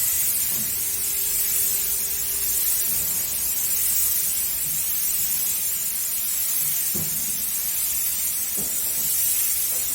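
A steady, even hiss, strongest in the high pitches, with a couple of faint knocks late on.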